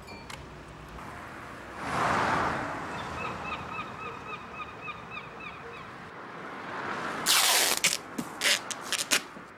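A bird calls in a rapid run of about a dozen short, pitched calls, three or four a second. Just before the calls there is a swell of rushing noise, and near the end a loud burst of noise followed by several sharp knocks.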